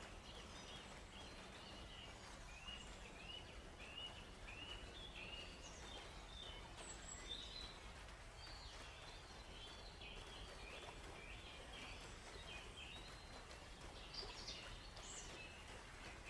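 Forest birds chirping, a steady run of short rising chirps about two a second with a few higher notes mixed in, over a faint steady background hiss.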